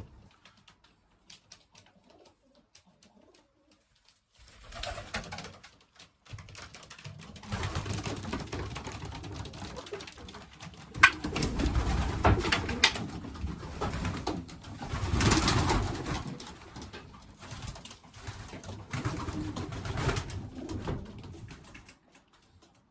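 Pigeons cooing in a loft, mixed with stretches of rustling and knocking. It is nearly quiet for the first four seconds, and there is a sharp click about eleven seconds in.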